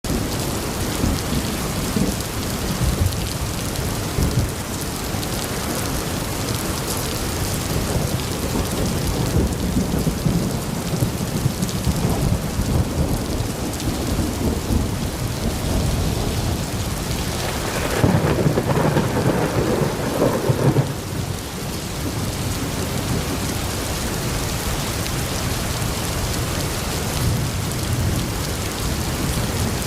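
Thunderstorm: steady heavy rain with rolling thunder, a louder burst of thunder about two-thirds of the way through.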